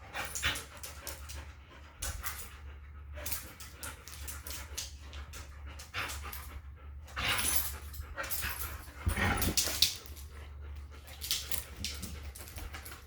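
Dogs playing, panting, with irregular breathy bursts, the loudest about nine seconds in, over a steady low hum.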